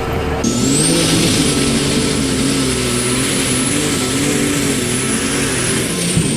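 Pulling tractor's engine running hard under load, its engine note wavering slightly, with a loud high whine-and-hiss layered over it that comes in about half a second in and falls away near the end.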